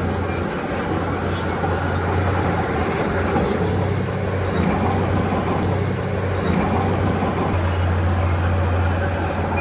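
Heavy diesel earthmoving machinery running steadily under load, a constant low engine drone with noisy mechanical clatter over it and a few faint high squeaks.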